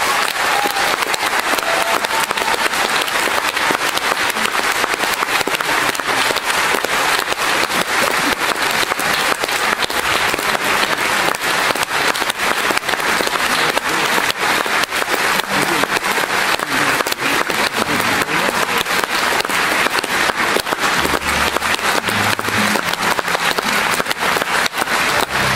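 Concert audience applauding after a song: continuous dense clapping from many hands, steady throughout.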